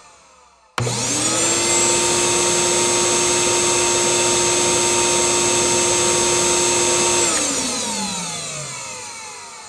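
A motor-driven whirring noise, like a vacuum cleaner or similar appliance, switching on suddenly just under a second in. It rises quickly to a steady pitch, runs evenly for about six seconds, then winds down with falling pitch and fades out.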